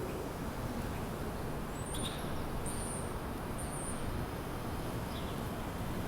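A few small birds giving short, high chirps, three in the middle and a fainter one later, over a steady low rumble.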